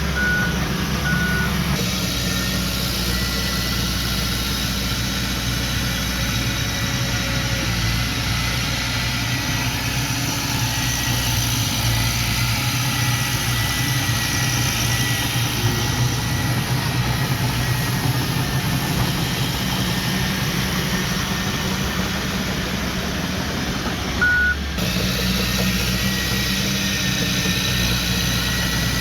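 Heavy diesel earthmoving machinery running steadily, with a reversing alarm beeping a few times near the start and once more near the end.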